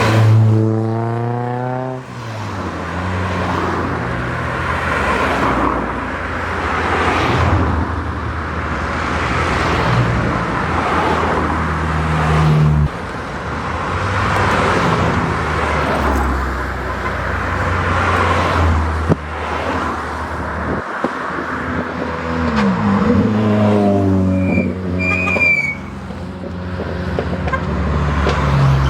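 Engines of Renault performance cars running and driving by with a steady low rumble. The revs fall away in the first couple of seconds, and one engine revs up hard near the end.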